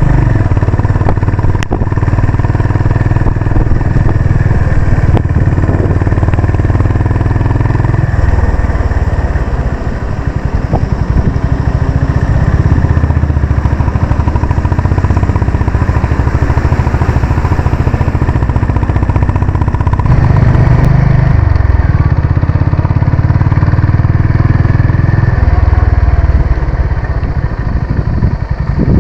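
Honda CB350 RS's air-cooled single-cylinder engine running steadily under way. The engine note eases off briefly around nine seconds in, then picks up again.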